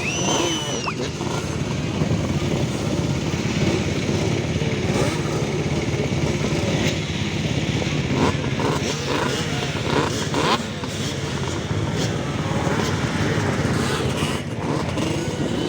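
Motorcycle engines running steadily, with a brief rise and fall in pitch about half a second in.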